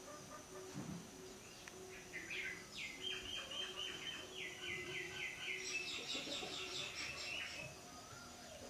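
A bird singing a quick run of repeated high chirping notes for several seconds in the middle, over a faint steady hum.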